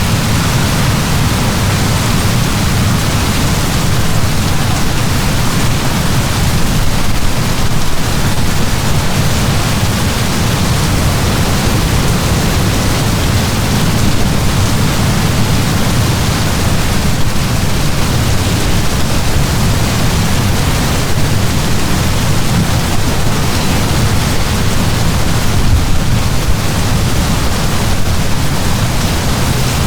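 Heavy rain falling in a steady downpour, a dense even hiss with a deep rumbling low end.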